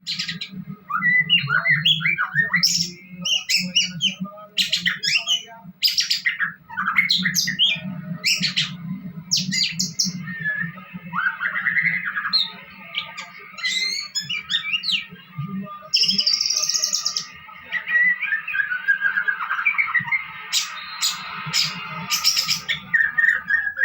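White-rumped shama (murai batu) singing in full, continuous song: a rapid, varied stream of clear whistles, sliding notes, chirps and harsh squawks. A low steady hum runs underneath.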